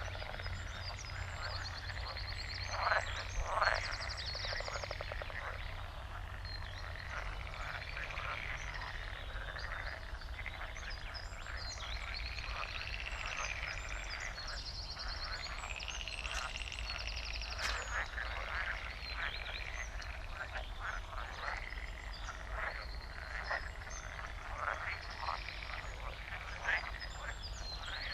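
A dense chorus of croaking frogs, many calls overlapping without pause, with small birds chirping faintly above it.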